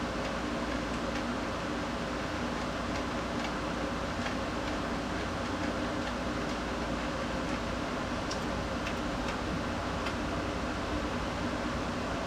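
Steady mechanical hum with faint, irregular light ticks, typical of a car engine idling.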